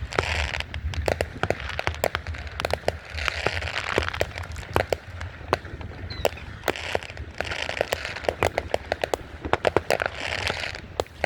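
Fireworks going off: a rapid, irregular run of sharp cracks and pops over swells of crackling hiss.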